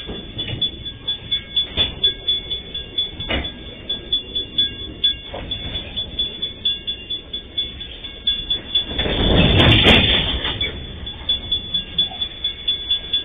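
MRS Logística freight train's wagons rolling past, wheels clacking over the rail joints at about three clacks a second. About nine seconds in, a louder rush of noise swells for a second or so, then the clacking goes on.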